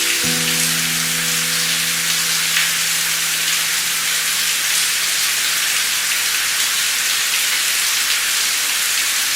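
Steady rain, an even hiss with faint scattered drop ticks. A held low note of soft music sounds at the start and fades out over the first few seconds.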